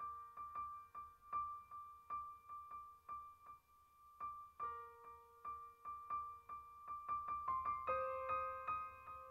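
Soft background music: a piano or electric piano playing repeated notes a few times a second, thinning out around the middle and growing fuller near the end.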